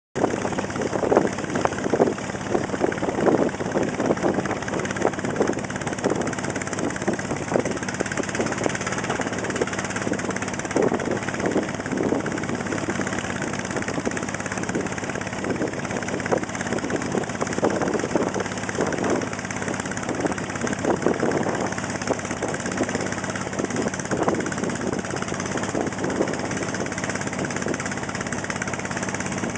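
Motor boat engine running steadily under way, with an uneven rushing wash of noise over it.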